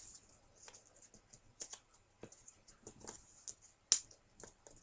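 Paper crinkling and crackling in irregular small clicks as it is folded and flattened into creases, with one sharper crackle about four seconds in.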